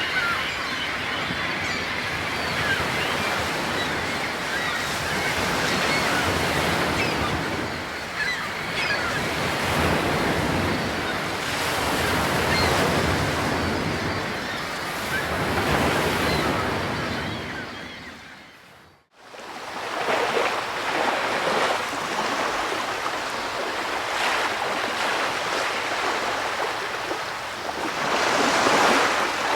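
Ocean waves washing in on a shore, a steady rushing surf that swells and eases. It fades out to silence about two-thirds of the way in, then comes back.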